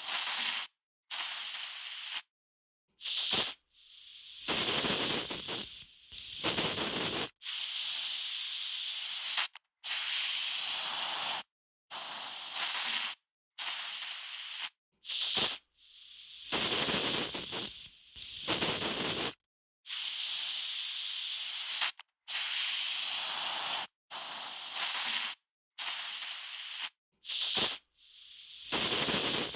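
Aerosol spray can spraying in over a dozen separate bursts, some under a second and some several seconds long, each a high hiss that starts and stops abruptly with short silences between.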